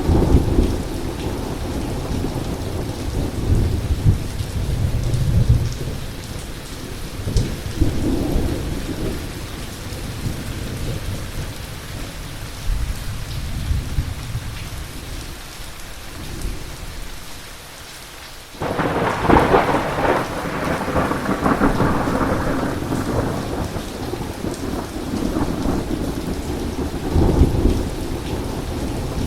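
Heavy rain falling steadily through rolling thunder. The rumbling fades to a quieter lull, then a sudden loud thunderclap breaks in a little after the middle and rolls on, with another low rumble near the end.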